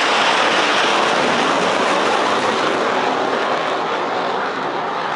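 Military jet passing low overhead: a loud, even roar that slowly fades as it goes by. The uploader takes the jet for an F-18.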